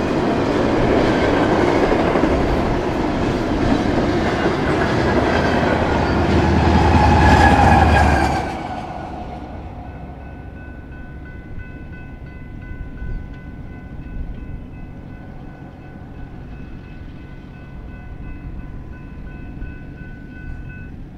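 Double-stack container train rolling past: a steady rumble and clatter of wheels on the rails that swells slightly, then drops away sharply about eight seconds in as the last car goes by. After that, a faint steady high ringing remains.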